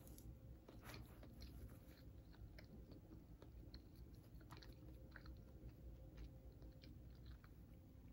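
A person quietly chewing a mouthful of warm banana bread muffin, with small, irregular mouth clicks.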